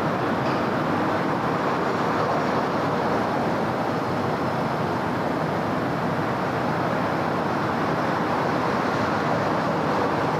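Steady city road traffic: a continuous wash of car and tyre noise with no single vehicle standing out.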